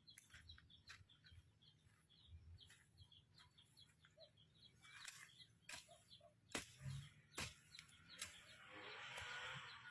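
Faint, quick high-pitched bird chirping repeated over and over, with a few sharp clicks or knocks in the second half and a short rustling noise near the end.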